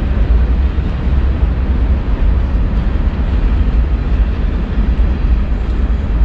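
Steady low rumble with an even hiss over it, running on unchanged with no clear events.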